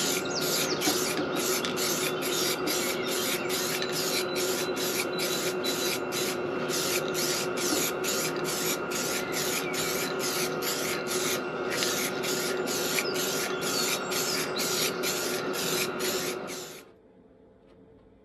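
Aerosol spray can of filler primer spraying in a long, steady hiss that pulses evenly, stopping abruptly about a second before the end.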